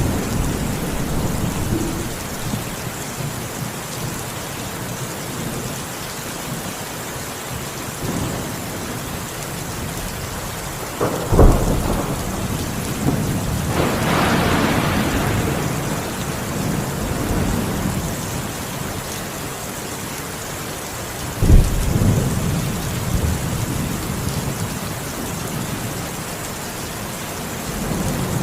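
Steady rain with thunder: two sharp claps, about 11 and 21 seconds in, each trailing into a rumble, and a longer rolling rumble between them.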